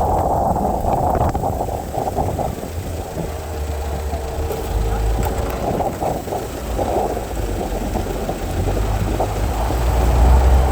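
Mazda 5's 2.0-litre LF inline-four petrol engine running steadily during an engine test, with a deep low rumble that grows a little louder near the end.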